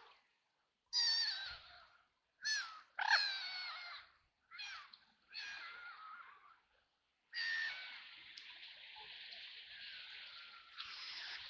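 Ducks quacking: a string of separate harsh, pitched calls through the first six seconds, then a continuous run of calling from about seven seconds in.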